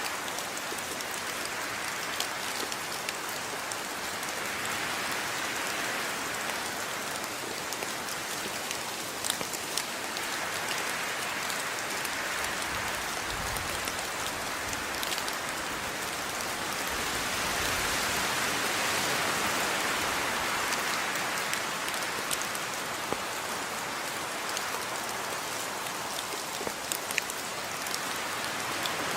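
Steady rain falling: an even hiss with scattered individual drops ticking sharply now and then, swelling a little past the middle.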